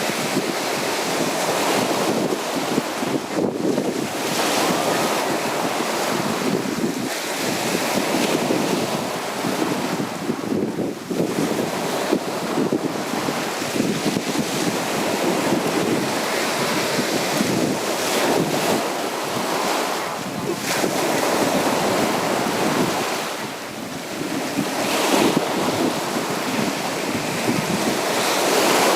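Sea waves washing onto a beach in a steady, continuous rush of surf, with wind buffeting the microphone.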